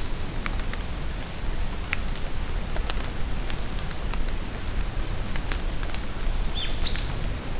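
Steady rain in a forest, with scattered drops pattering and ticking. A few short, high bird chirps come in the middle, and one quick rising bird call comes near the end.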